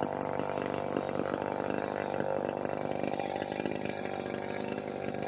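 Two-stroke chainsaw running steadily at an even speed, without revving.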